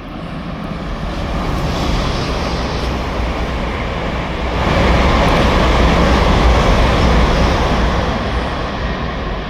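Train passing close by on the platform line: a loud rushing noise over a low rumble that builds, peaks about five seconds in, then eases off near the end.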